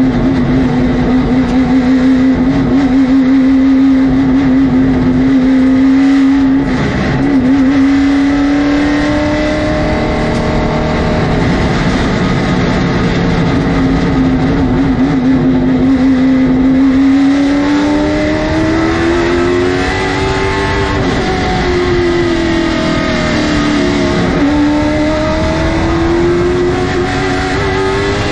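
Late model stock car's V8 racing engine at high revs heard from on board, holding a steady pitch, dipping sharply about seven seconds in, then sagging and climbing again several times toward the end as the driver lifts and gets back on the throttle through the corners.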